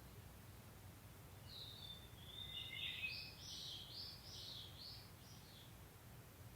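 A Japanese bush warbler (uguisu) sings one phrase of a few seconds: a few opening notes, then a quick warbling run of high notes. Under it is a faint, steady low background rumble.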